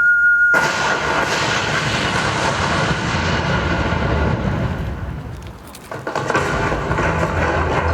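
Booming sound effects from a projection-mapping show's soundtrack, played over loudspeakers: a sudden loud rumbling crash about half a second in that slowly dies away, then a second rumbling swell near the end.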